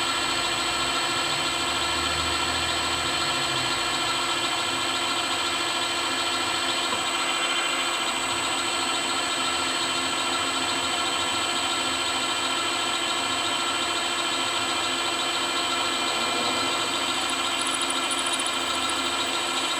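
Milling machine running steadily with many constant whining tones, its drill being fed gently through a pin hole in the shaft.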